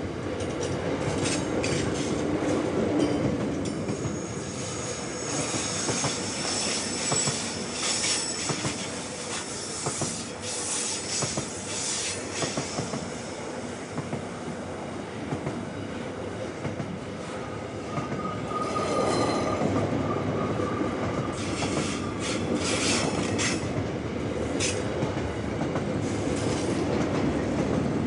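Wagons of an SCT Logistics intermodal freight train, louvred vans and container flats, rolling past on a curve: a steady rumble of steel wheels on rail with repeated clicks and knocks. High, thin wheel squeal comes in a few seconds in, and a fainter squeal tone again past the middle.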